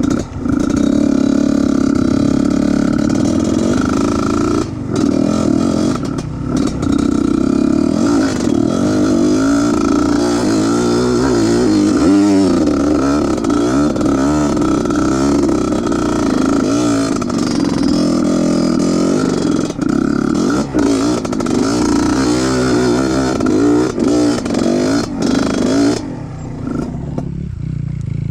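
Trail motorcycle engine running under load and revving, its pitch wavering up and down, easing off to a quieter, lower running near the end.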